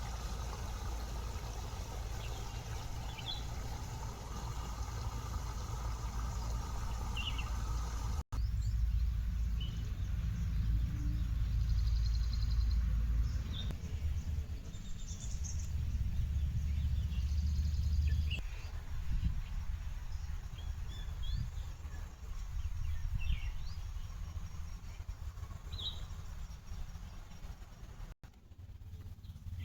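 A steady low rumble with scattered short bird chirps over it. The ambience breaks off and changes abruptly about eight seconds in and again near the end.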